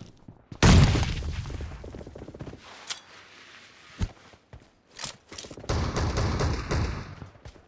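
Video game gunfire: a loud blast about half a second in that dies away over two seconds, a few single shots, then a rapid burst of automatic fire near the end.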